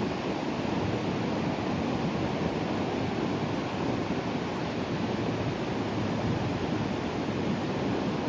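Sea waves breaking and washing on the shore in a steady, even rush, with no single crash standing out.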